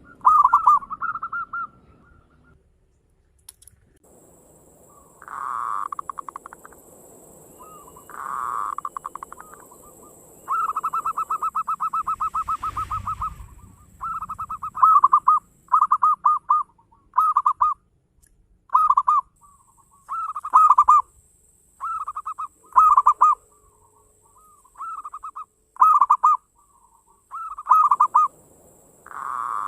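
Zebra dove (perkutut) cooing: a long run of fast staccato coo notes, then short quick bursts of cooing repeated about once a second.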